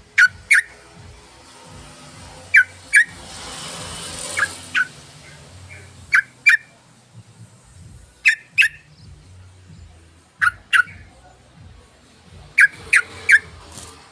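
Yellow-vented bulbul (trucukan) calling: short, sharp notes in quick pairs, repeated about every two seconds, played as a lure call.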